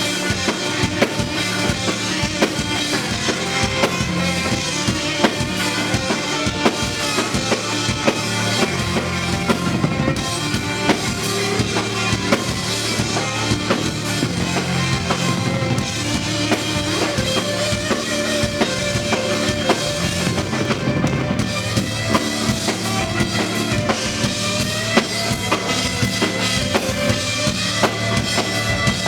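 Live rock band playing a song: drum kit with bass drum and snare keeping a steady beat under guitars and bass.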